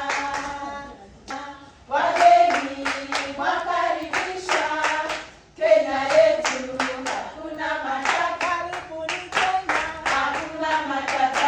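A group of voices singing together over rhythmic hand clapping. The song breaks off briefly twice, about a second and a half in and again around five and a half seconds.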